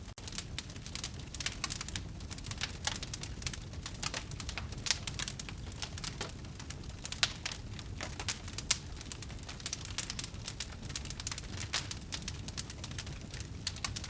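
Campfire crackling: irregular sharp pops and snaps of burning wood, several a second, over a low steady rumble of the flames. The sound drops out for an instant at the very start.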